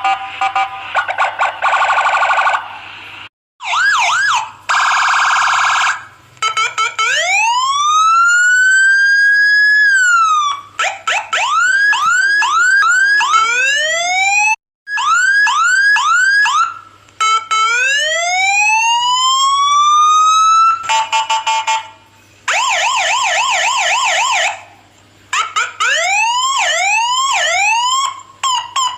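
Police and ambulance siren sound effects, one pattern after another: fast warbling, slow wails that rise and fall, and runs of quick rising whoops. The patterns switch abruptly, with short breaks between them.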